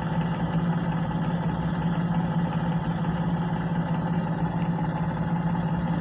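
Gas furnace's draft inducer blower running with a steady hum while the hot-surface igniter heats up, before the gas valve opens: the start of the furnace's ignition sequence.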